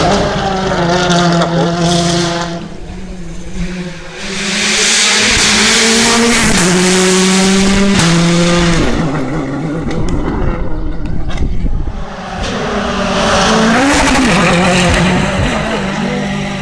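Rally cars on a special stage, engines revving hard, their pitch climbing and then dropping sharply several times as they shift gear, with tyre noise underneath.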